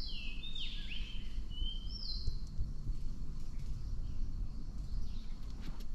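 A bird calling a handful of short, high, downward-curving notes in the first two seconds or so, then falling quiet, over a steady low outdoor rumble.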